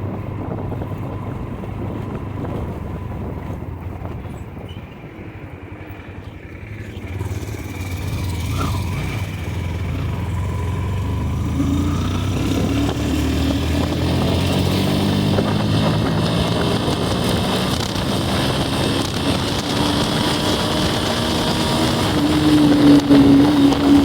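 Motorcycle engine running while riding. It dips in level briefly about five seconds in, then pulls harder, its engine note growing louder and clearer toward the end.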